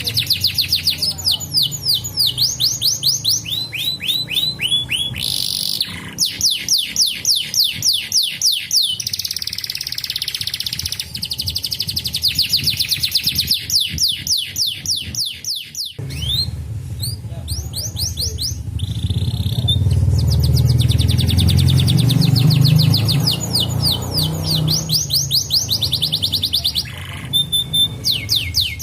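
Canary singing long, fast trills of rapidly repeated high notes, each note sweeping downward, switching from one trill to another every few seconds. A low rumble runs underneath for several seconds in the middle.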